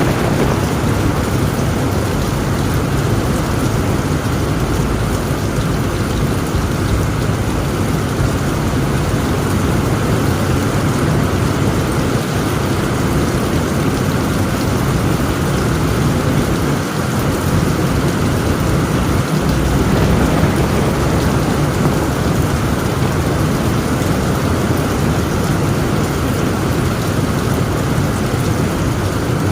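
Heavy rain falling steadily on a tent roof over a low, continuous rumble of thunder that swells slightly about two-thirds of the way through.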